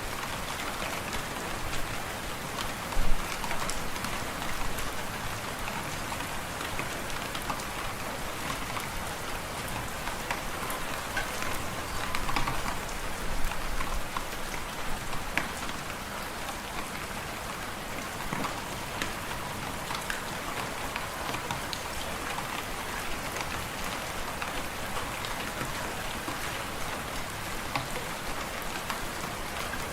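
Wood fire in a fireplace crackling steadily, a dense run of small pops over a steady hiss, with a louder pop about three seconds in and a few more between twelve and fourteen seconds.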